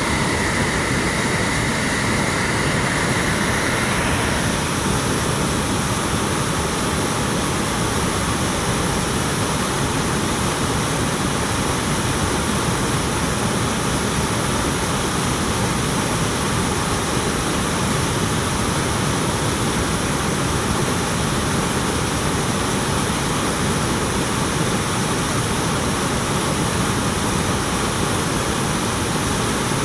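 Waterfall pouring down a mountainside: a steady, loud rush of falling water.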